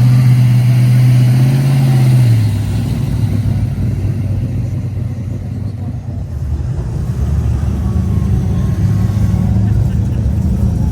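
Muscle car V8 engine held at steady high revs, dropping about two seconds in to a lower, rougher rumble, then building a little again near the end.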